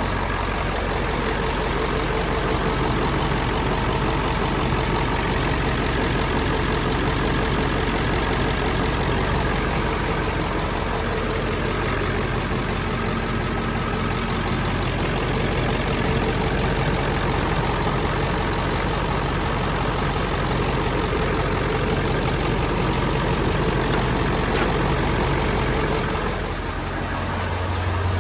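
Ford F-350 diesel pickup engine idling steadily after a battery replacement, dipping slightly near the end.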